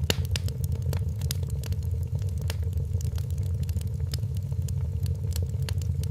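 Wood fire crackling in a fireplace: many sharp irregular pops and snaps, one loud snap at the very start, over a steady low rumble of the burning fire.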